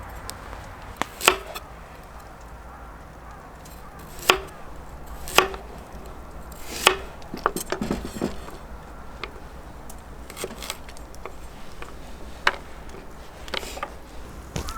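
Sharp, separate knocks and taps of hard objects, irregularly spaced one to three seconds apart, with a short run of lighter clicks about halfway through.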